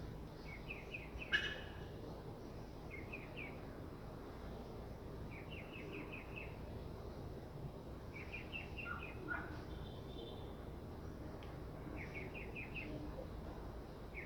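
A songbird repeats a short trill of four to six quick, high notes every two to three seconds over a steady low background noise. A sharp click about a second and a half in is the loudest sound.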